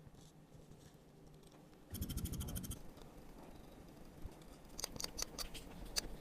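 Small metal watch parts and tools being handled during a watch rebuild. About two seconds in comes a short, rapid ratcheting burst, and near the end a series of sharp light clicks.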